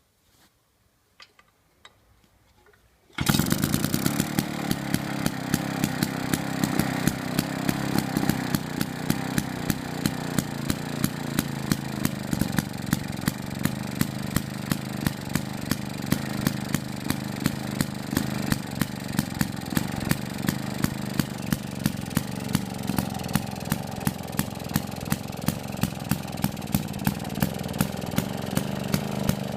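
Restored Villiers MK25C two-stroke stationary engine starting about three seconds in after a few faint clicks, then running steadily with a regular sharp beat.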